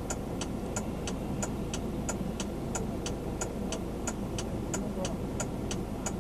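A vehicle's turn-signal flasher clicking steadily, about three clicks a second, over a steady low engine and road rumble.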